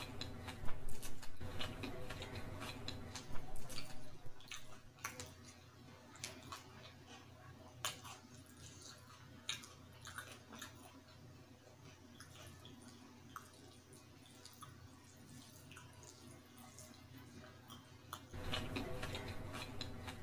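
Close-miked wet chewing and mouth clicks of someone eating saucy Indo-Chinese food by hand. The sounds are louder in the first few seconds and again near the end, and softer and sparser in between.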